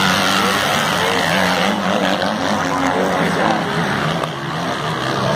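Racing motorcycle engines, 250 and 450 competition dirt bikes, running hard during a race, their pitch rising and falling with throttle and gear changes.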